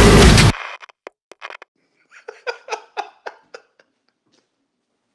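Loud heavy music cuts off abruptly about half a second in. A few sharp clicks follow, then a quick run of about eight short laugh-like vocal bursts from a person, like a giggle.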